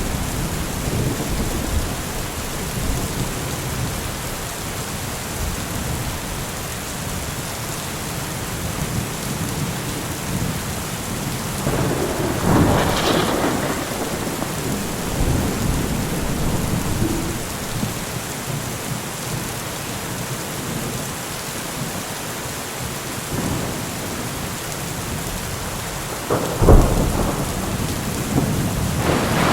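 Steady heavy rain with thunder rumbling low beneath it. A thunder crack swells about twelve seconds in, and a sharper, louder clap comes a few seconds before the end.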